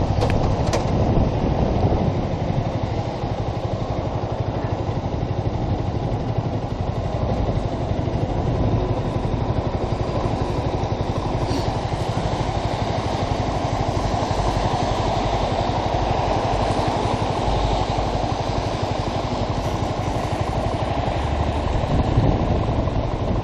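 Yamaha YZF-R125's single-cylinder engine running steadily.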